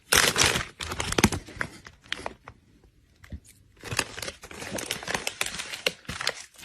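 Irregular crinkling and rustling, as of something being crumpled or scrabbled at. It pauses for about a second midway and then resumes.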